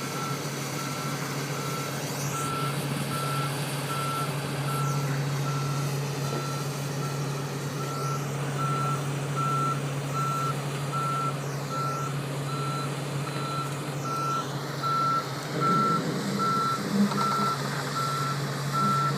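A heavy machine's reversing alarm beeps steadily in an even repeating pattern over its running engine as the machine moves with a lifted sailboat.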